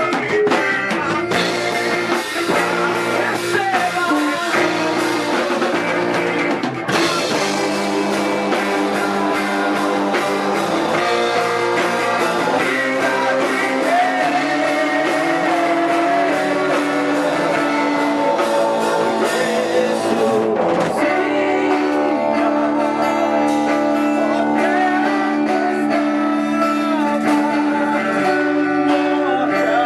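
Live band playing a worship song, with guitar, drums and singing.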